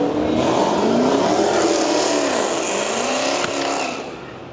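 A car engine revving hard, loud, its pitch rising and falling several times, then fading near the end.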